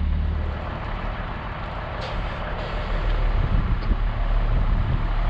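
The DT466 diesel engine of an International S1900 single-axle dump truck running steadily, under a continuous rushing noise, as the truck tailgates a load of gravel.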